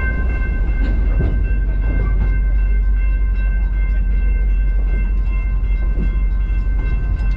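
Skunk Train moving, heard from an open car: a heavy steady low rumble with a thin steady high-pitched whine above it.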